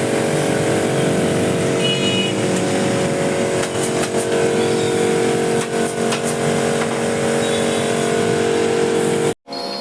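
A steady machine drone at a constant pitch, holding unchanged until it cuts off abruptly near the end.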